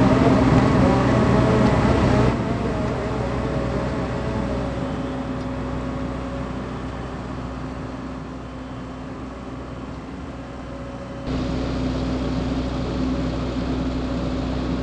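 JCB JS220 excavator's diesel engine running steadily with a constant hum. It drops abruptly to a quieter stretch about two seconds in and jumps back up about eleven seconds in.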